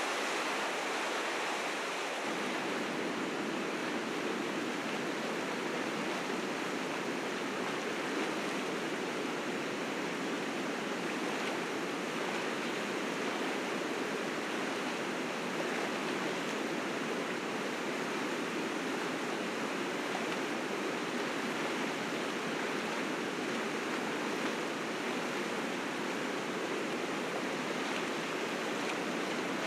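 River rapids rushing steadily, a fast spring-melt current pouring through the rapids with an even, unbroken rush.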